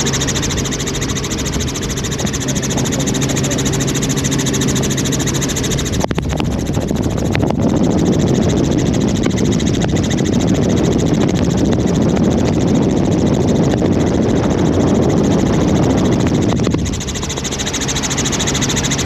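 Helicopter in flight, its rotor and engine drone steady with a constant hum. From about six seconds in to near the end, a louder rushing noise swells over the hum, then drops away and the steady hum returns.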